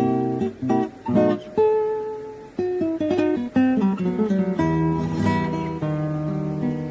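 Background music on acoustic guitar: plucked notes and strummed chords.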